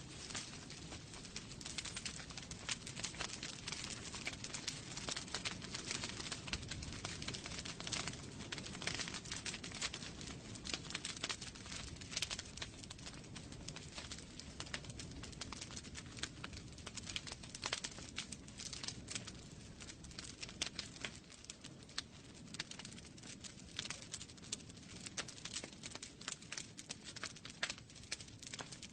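Wood fire burning in a fireplace: a steady low rush of flames with dense, irregular crackles and pops from the logs.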